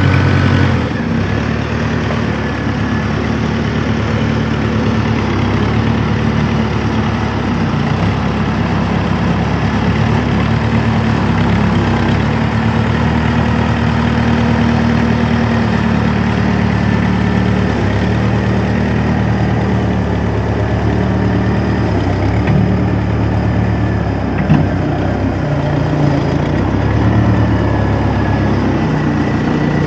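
A vehicle engine idling steadily close by, its pitch shifting slightly now and then, with a single short knock about two-thirds of the way through.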